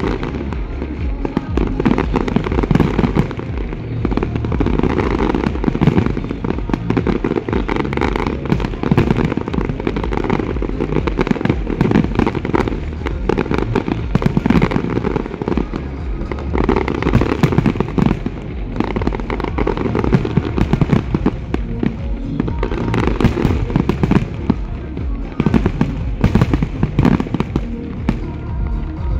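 A dense aerial fireworks barrage: shell bursts booming and crackling over one another without a pause, over a continuous low rumble.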